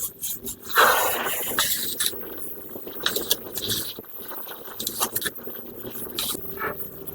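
Irregular scraping with scattered sharp clicks and knocks, the loudest scrape about a second in.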